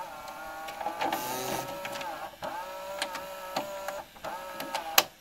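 A printer's motors running: a steady whine of several tones that dips briefly in pitch every second or so as the head moves, with sharp clicks. A loud click comes near the end, and the sound then cuts off.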